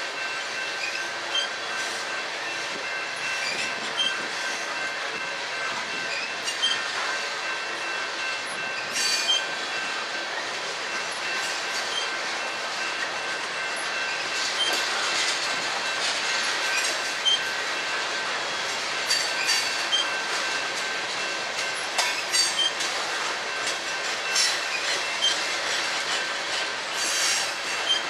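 Covered hopper cars of a freight train rolling past: steady rolling noise with repeated wheel clacks over rail joints, and a thin steady squeal from the wheels.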